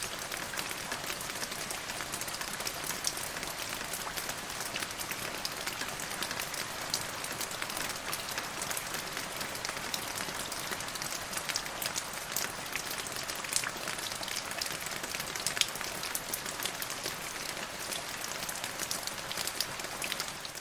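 Steady rain falling: an even hiss dotted with many separate drops ticking on a surface.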